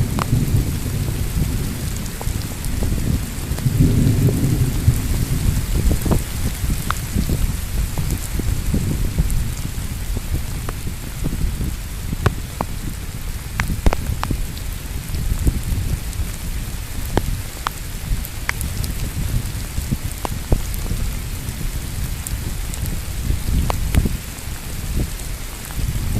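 Steady rain hissing down during a thunderstorm, with low rolling thunder rumbling underneath, swelling about four seconds in, and scattered individual drops ticking close by.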